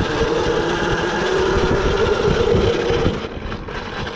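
Yozma IN10 electric dirt bike's motor whining at a steady pitch while riding, over the low rumble of wind on the microphone. The whine and the rumble fall away about three seconds in.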